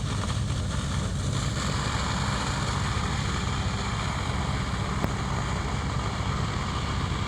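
Fire engine's diesel running steadily at high revs, driving its pump to feed a high-pressure hose stream, a constant rumble with a rushing hiss over it.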